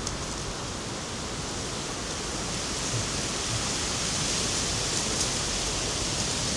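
A steady hissing noise that grows a little louder after the middle and cuts off suddenly at the very end.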